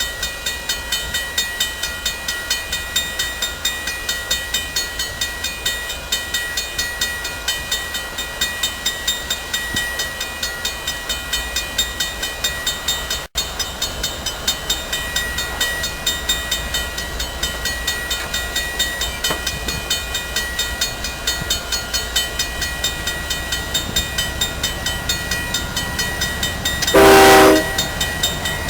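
Train running with a steady rhythmic clatter of about three beats a second, then one short, loud locomotive horn blast near the end.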